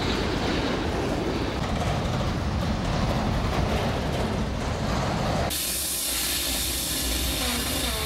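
Freight train cars rolling past with a steady rumble of wheels on rail. About five and a half seconds in, the sound changes abruptly to a bright, steady hiss as a diesel locomotive approaches on the adjacent track.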